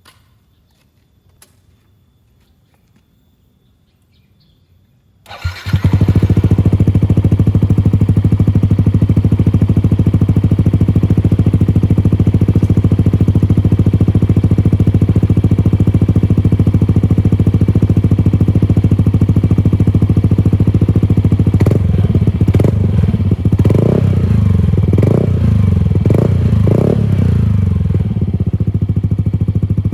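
Yamaha NMAX scooter's single-cylinder four-stroke engine, running through a PDW Racing capsule-type aftermarket exhaust, starts about five seconds in and idles steadily. Past the middle it is revved in about four short throttle blips, then settles back to idle.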